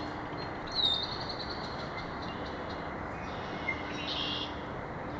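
Songbirds singing in a spring morning chorus: a bright phrase that slides down with a trill about a second in, and another short burst of song around four seconds, over a steady low background rumble.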